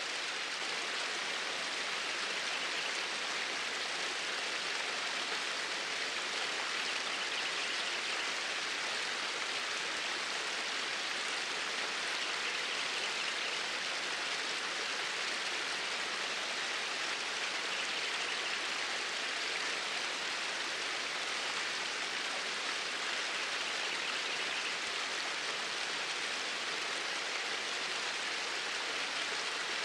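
Flowing water of a stream, a steady, even rush that does not change.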